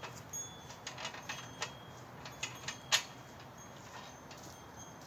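An irregular run of light clicks and clinks, with one sharper knock about three seconds in.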